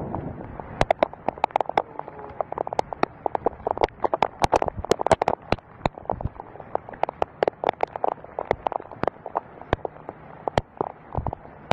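Storm-driven rain striking a window pane: a dense, irregular patter of sharp taps over a steady rushing hiss.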